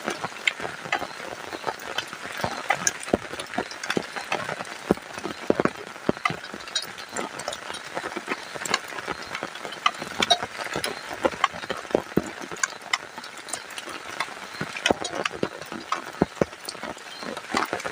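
Rain falling steadily, with dense irregular pattering and dripping taps.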